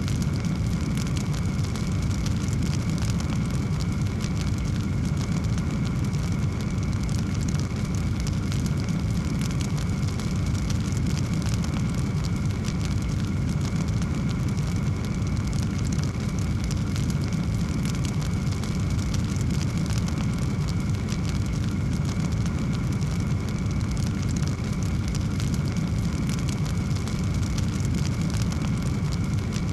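Wood fire burning in a fireplace: a steady low rumble of flames with dense small crackles throughout.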